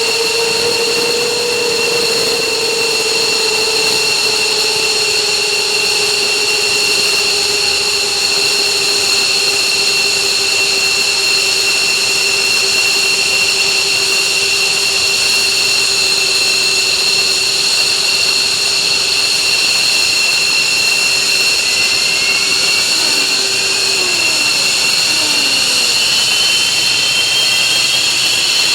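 F-15J's Pratt & Whitney F100 turbofan jet engines running with a loud steady high-pitched whine over a rushing roar. Starting about three quarters of the way in, new whining tones glide upward as an engine spools up.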